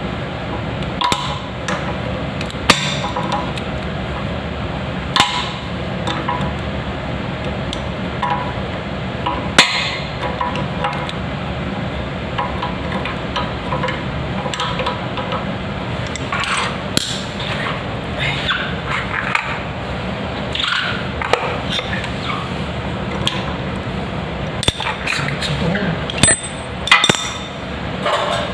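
Hand tools and fittings clinking and knocking now and then while a toilet tank fill valve is worked on, over a steady background hiss.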